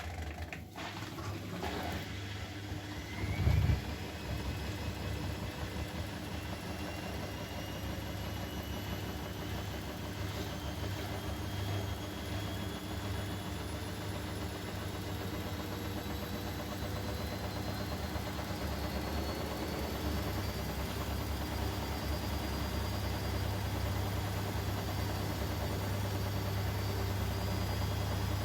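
Bosch Maxx WFL 248Y washing machine's drum motor starting up and speeding up into a spin, its whine rising slowly in pitch and growing louder. There is a thump about three seconds in.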